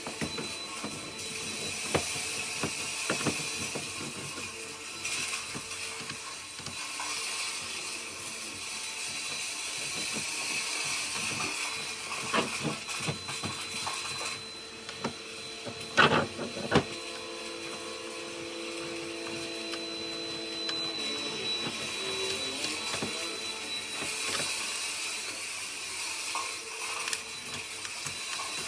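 A small motor running steadily, with scattered clicks and a sharp knock about sixteen seconds in.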